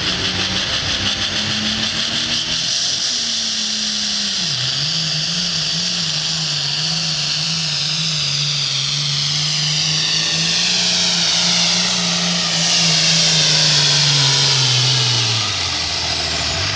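Pulling tractor's engine running hard under load down the track, with a high whine that slowly falls in pitch. The engine note dips about four seconds in, the run gets louder for a couple of seconds near the end, then the revs drop away.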